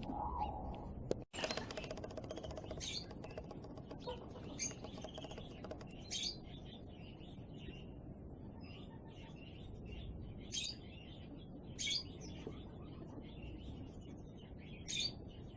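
Small aviary birds calling: soft, continuous twittering broken by about half a dozen short, sharp chirps.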